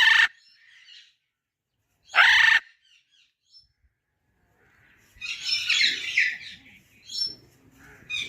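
Bird calls: two short, loud, harsh calls about two seconds apart, then a burst of quick high chattering notes and one more short call near the end.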